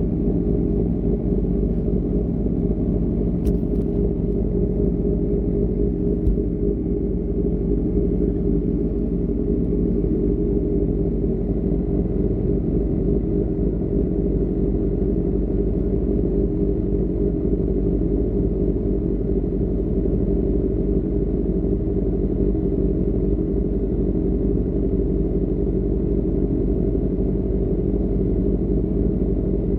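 Motorcycle with an AR GP1R aftermarket exhaust running steadily at a constant pace, its engine and exhaust note mixed with a low rumble. A brief click comes about three and a half seconds in.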